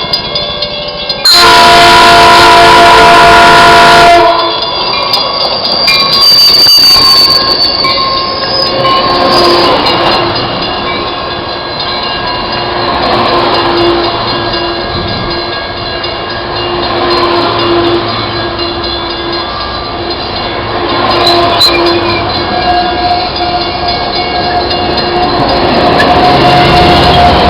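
Metrolink commuter train sounding one long, loud horn blast of about three seconds, starting about a second in. The train then runs past with a steady rumble and wheel squeal.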